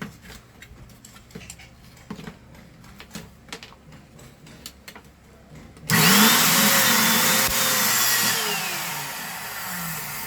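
Small brushed motor of a Philco handheld vacuum cleaner, run bare out of its housing: a few light handling clicks, then about six seconds in it switches on suddenly with a loud whine and runs, its pitch and level falling slowly near the end. It is sparking heavily at the commutator; the motor turns out to have a broken upper bearing and a worn brush.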